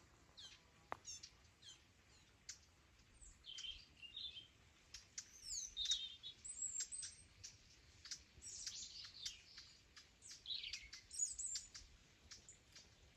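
Small birds chirping: many short, high chirps and quick downward-sweeping notes, several overlapping, busiest in the middle.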